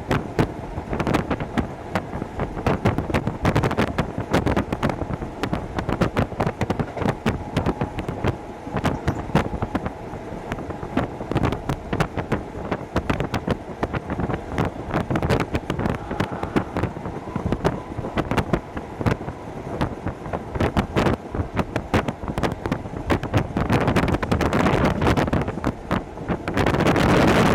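Hokuso Railway 7260-series train running, heard from inside the car: a steady rumble of wheels on rail with frequent sharp clicks and clatter. The noise swells and grows louder near the end.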